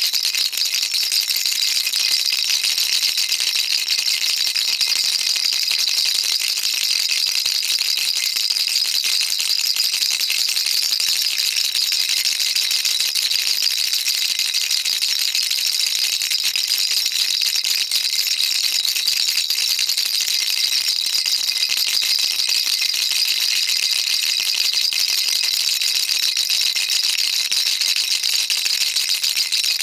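Baby rattle shaken continuously: a dense, even stream of high, fine clicks from the beads inside, with no pauses or change in pace.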